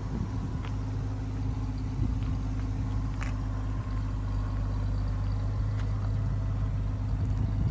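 1976 Chevrolet Blazer's engine idling steadily, with a few faint clicks.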